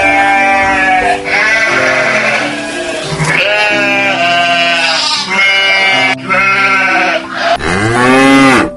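A domestic goat bleating about five times in a row, each bleat a wavering call lasting a second or so. Near the end a cow moos once, the loudest sound, its pitch rising and then falling.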